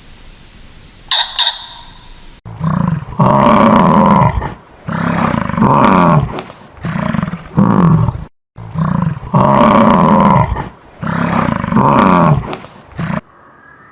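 A large animal roaring in loud, drawn-out, deep calls, two runs of about five roars with a short break between them. About a second in, before the roaring, there is one short, sharp, high call.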